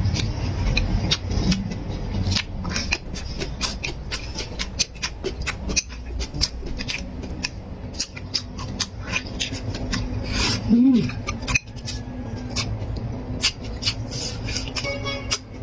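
Close-miked eating sounds: chewing and mouth clicks, many short crunchy or wet ticks one after another.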